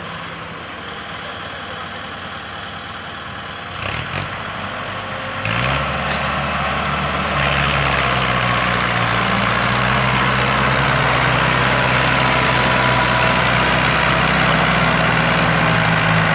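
Tractor's diesel engine running steadily, then revving up about five and a half seconds in and again a couple of seconds later, and holding at high revs while pulling a trolley. A brief clatter just before the first rise.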